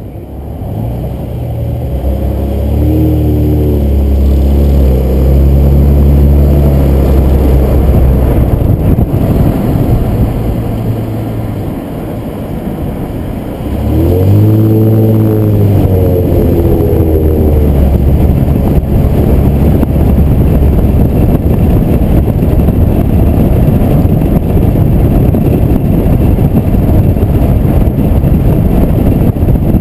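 Car on the road accelerating twice, its 3.5-litre V6 engine rising in pitch each time, over a steady heavy rumble of road and wind noise.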